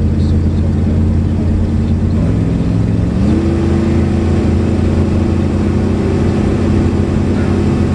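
Car engine running, heard from inside the cabin while driving under light throttle: a steady drone that rises in pitch about three seconds in and holds there.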